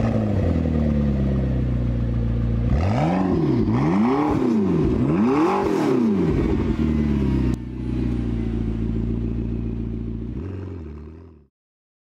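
Porsche 911 GT3's 3.8-litre flat-six engine, its revs settling down to idle, then blipped three times in quick succession, each rise and fall clear. It then idles again and fades away near the end.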